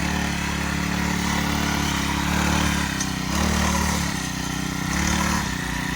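Mini bike's small gas engine running, its pitch rising and falling a few times as the throttle is opened and eased off.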